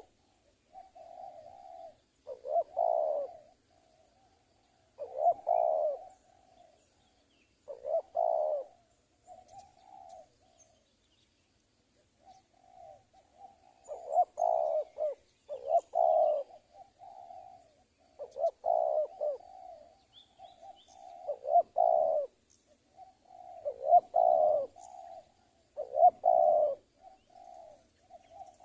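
Spotted dove cooing: a repeated phrase of loud, rolling coos every two to three seconds, with softer coos between them and a pause of about two seconds near the middle.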